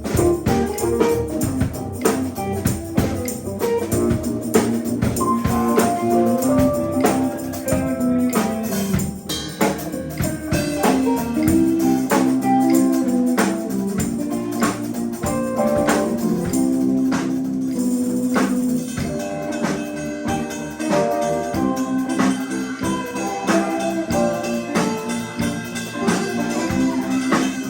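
Live band playing an instrumental jam, with steady percussion hits under held chords and melody lines.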